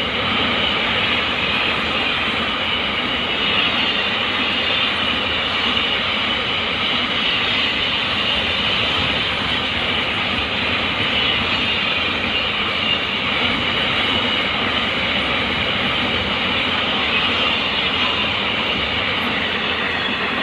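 Double-stack container freight train rolling past. Its wheels on the rails make a steady, loud noise that holds constant throughout.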